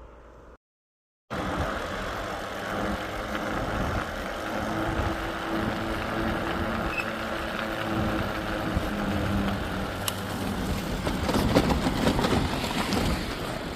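Steady road-vehicle noise with a low engine hum, after a brief cut in the sound about a second in.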